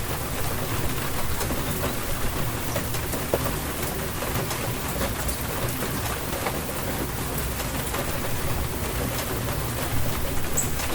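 Steady rainfall, with many individual drops ticking close by over a low, steady rumble.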